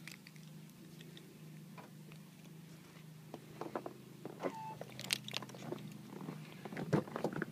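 Footsteps crunching in fresh snow, sparse at first and then coming thicker and louder from about three seconds in, over a steady low hum.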